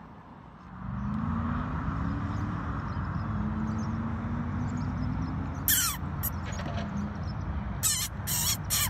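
A car engine running steadily, starting about a second in. Crows cawing, once about midway and then several caws in quick succession near the end.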